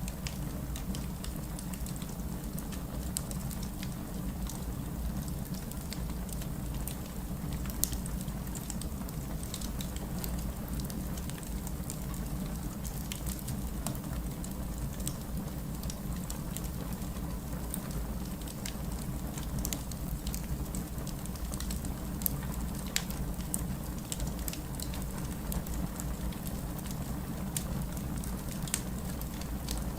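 Campfire burning, with frequent small, irregular crackles and pops of burning wood over a steady low rumble.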